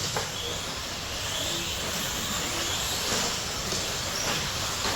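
Electric brushless 13.5 RC stadium trucks racing on a dirt track: a steady hash of running noise with faint high motor whines rising and falling.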